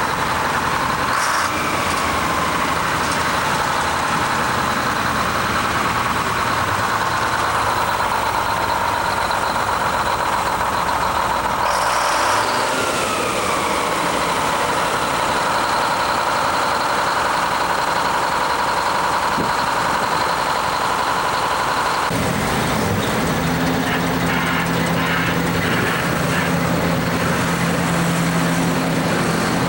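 Heavy diesel truck engine running with a strong high whine that falls in pitch twice. About two-thirds of the way through, the sound changes abruptly to a lower, steady idle.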